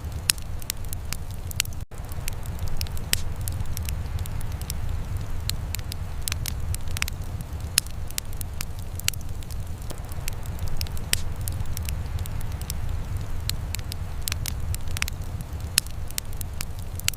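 Wood fire in a fireplace crackling, with irregular sharp pops and snaps over a steady low rumble. The sound drops out for an instant about two seconds in.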